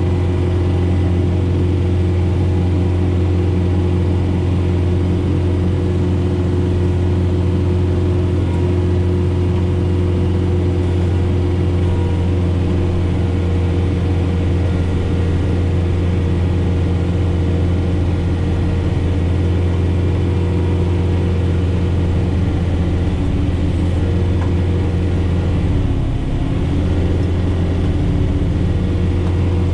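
John Deere 4066R tractor's diesel engine running steadily under load, driving a Frontier SB1174 snowblower through heavy wet snow. The engine note dips briefly about 26 seconds in and comes back up.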